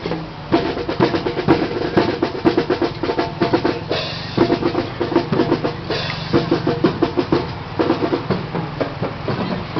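Drums beating a rapid rhythm of many strikes a second, with a couple of brief pauses about four and six seconds in.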